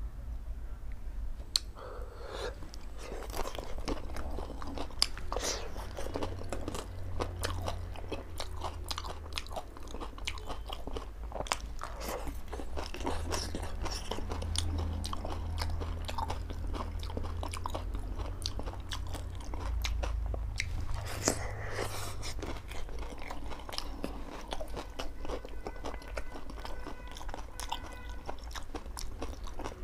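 Close-miked chewing of crisp dahi puri filled with curd: dense, irregular crunches and wet mouth clicks, over a low steady hum.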